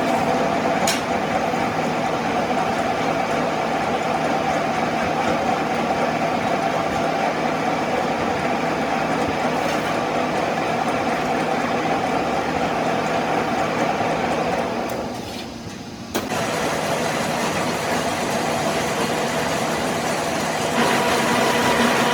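A machine running steadily with a dense mechanical noise. It dies away about fifteen seconds in and starts again abruptly a second later, then changes pitch near the end.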